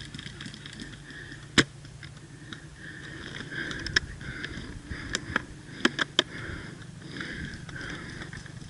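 Scattered single airsoft gun shots heard as sharp clicks. One loud shot comes about a second and a half in, then a quick irregular string of five or six more a few seconds later, over a steady high background hum.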